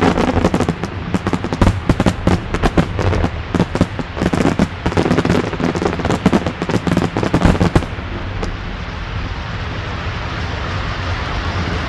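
Fireworks going off in a rapid volley of bangs and crackles, which stops about eight seconds in, leaving a steady outdoor din.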